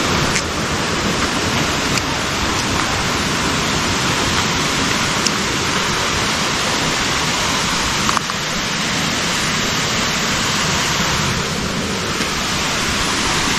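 Waterfall, water pouring and splashing in a steady, loud, even rush.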